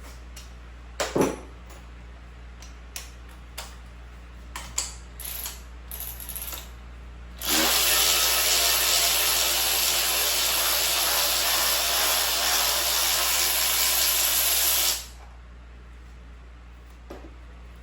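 Loose metal clicks and knocks of tools and sockets being handled, then a power tool running steadily for about seven seconds and stopping abruptly, spinning out a cylinder head bolt that has already been broken loose.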